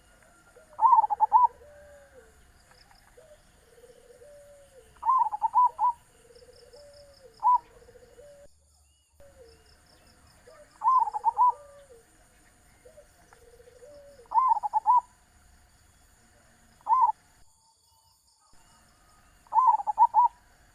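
Zebra doves (perkutut) cooing: loud rolling coo phrases every few seconds over a running series of softer, lower rounded coos, with faint high insect-like chirring behind.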